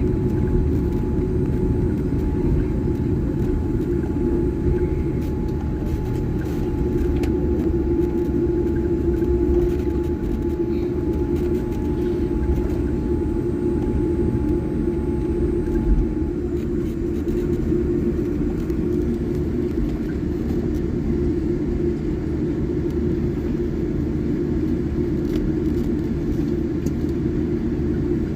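Jet airliner rolling on the ground after landing: a steady low rumble, with a thin steady whine that cuts off about halfway through and a single bump at about the same moment.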